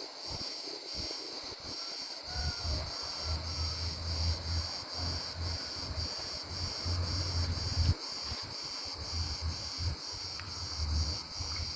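Cicadas chirring in a steady chorus that pulses about three times a second, with a low rumble coming and going underneath.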